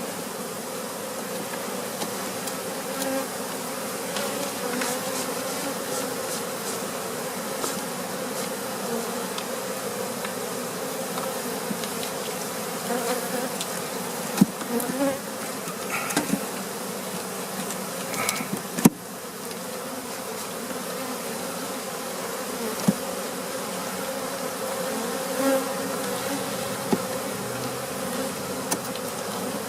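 Honey bee colony buzzing steadily around an open hive. A few sharp knocks come through, the loudest about midway.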